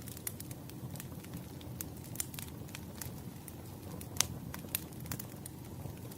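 Wood fire crackling, with irregular sharp pops over a low steady rumble; the loudest pop comes about four seconds in.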